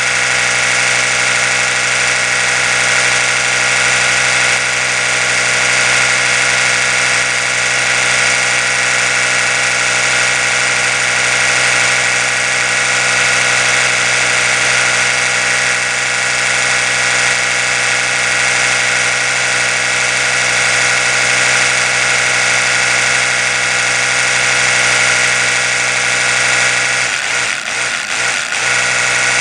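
Oral-B electric toothbrush running, a steady buzzing hum with a stack of even tones. Near the end the hum wavers and dips briefly before settling again.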